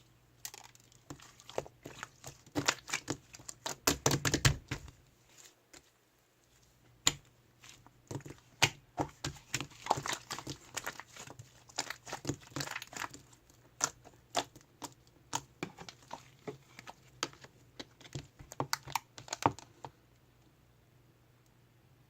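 Irregular crinkling and crackling, many small sharp clicks, densest about three to four seconds in and again around ten to thirteen seconds, stopping about two seconds before the end.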